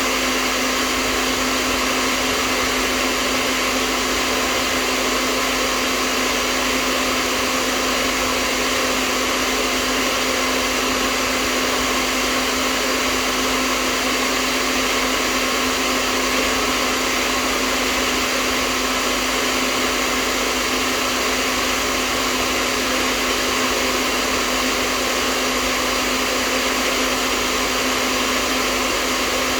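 Electric hair dryer running continuously: a steady, unchanging blowing noise with a low motor hum.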